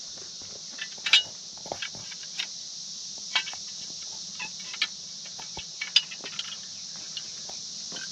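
Steady high chirring of insects, with scattered short light clicks and taps, the sharpest about a second in and about six seconds in.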